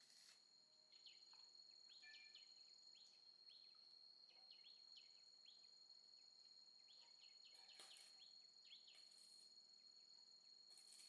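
Near silence with a faint, steady high-pitched insect trill, broken by runs of short, quick falling bird chirps.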